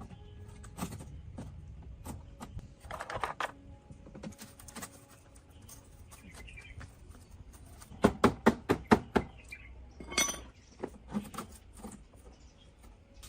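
Metallic clinking and knocking of small parts and tools being handled, with a quick run of about seven sharp taps about eight seconds in.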